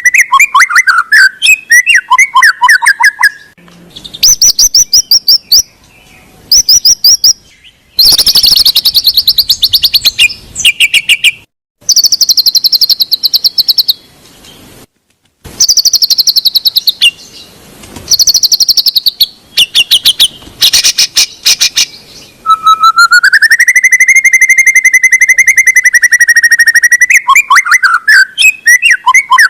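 White-rumped shama (murai batu) song: long wavering whistles at the start and again near the end, with fast rattling trills and rapid runs of high notes in between. The song is broken by a few short, abrupt gaps, as in an edited training track.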